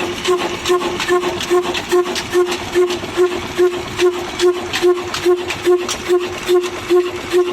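Old black diesel engine running steadily, a regular chugging beat of a little over two strokes a second with a ringing tone on each stroke.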